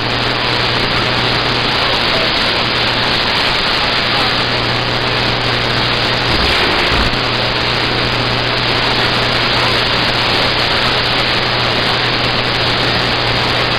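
Static hiss from a CB radio receiver with no one transmitting, steady and loud with a low hum under it, briefly disturbed a little past the middle.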